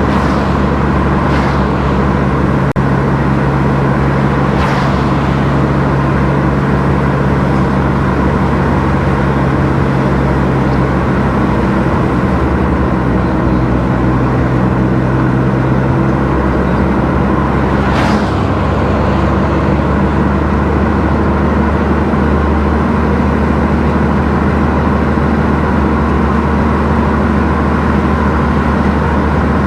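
Car driving along a road: a steady engine hum with road noise. The engine note changes about twelve seconds in and again about twenty-one seconds in, and there are a few brief whooshes.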